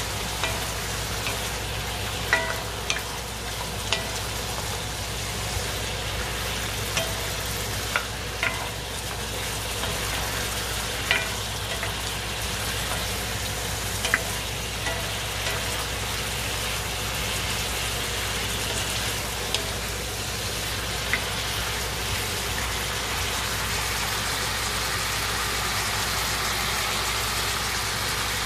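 Beef cubes with onion and garlic sizzling steadily as they sauté in a cast iron skillet. A wooden spatula stirring them gives occasional sharp clicks against the pan, most of them in the first half. A steady low hum runs underneath.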